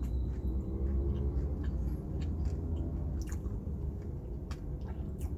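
A person chewing a mouthful of burger with crispy onion ring, the mouth sounds coming as scattered small clicks. Under it runs a steady low hum inside the car cabin.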